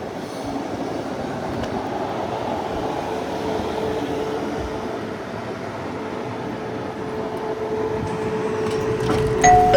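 Passenger train running, a steady rumble with a held whining tone that slowly grows louder. Right at the end a click is followed by the start of an onboard chime.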